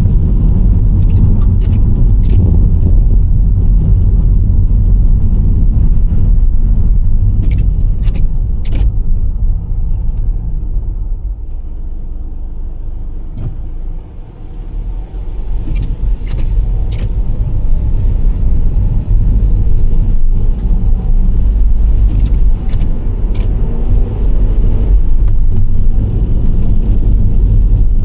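Nissan Serena C25 minivan driving: a steady low rumble of road and engine noise. It eases off about halfway through as the van slows, then builds again as it speeds up. A few faint high clicks come through now and then.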